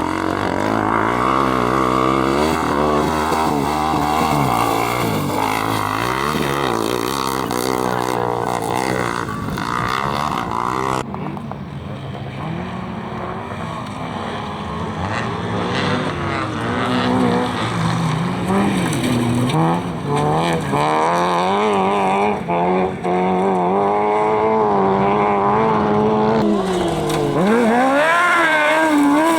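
Competition car engines revving hard, the pitch climbing and dropping with throttle and gear changes. About eleven seconds in the sound switches abruptly to a different car, which runs up through its gears and revs again near the end.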